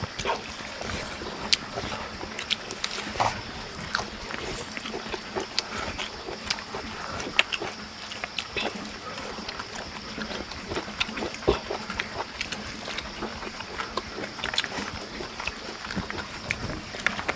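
People eating: irregular chewing, lip smacks and small clicks, with a steady faint high tone behind.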